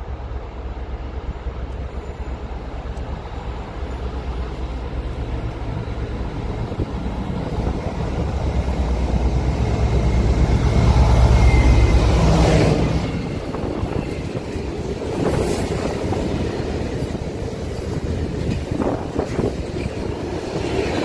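Class 60 diesel freight locomotive approaching and passing, its low engine rumble growing to a peak about eleven seconds in, then dropping away as it goes by. A long train of tank wagons follows, rolling past with steady wheel noise and a few sharp clicks over the rail joints.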